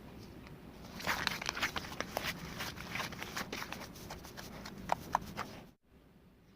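Irregular rustling and light clicking, with two sharper ticks near the end, cutting off abruptly.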